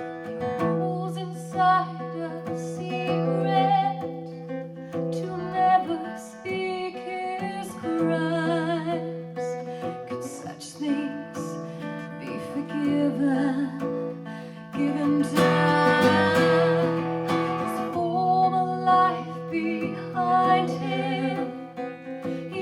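Live band song: an acoustic guitar strummed in steady chords over a held low note, with a voice singing long wavering notes, loudest about two thirds of the way through.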